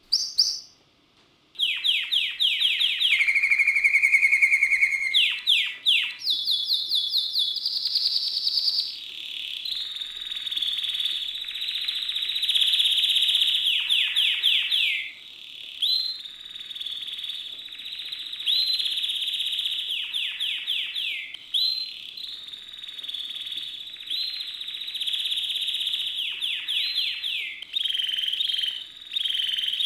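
Several caged songbirds singing at once: fast rolling trills, rapid repeated notes and long, high, steady whistled notes overlapping. One short chirp comes right at the start; the full chorus begins about a second and a half in and carries on without a break.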